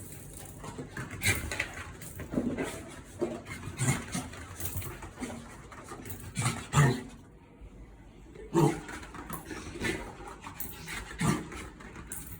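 Bichon frisé panting, with irregular short scuffs and knocks as it moves about; there is a brief lull a little past the middle.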